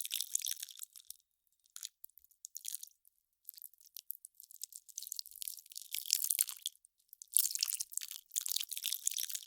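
Melting ice crackling and popping: dense clusters of fine, sharp, high crackles. They thin to a few scattered ticks for about two seconds after the first second, then build back up.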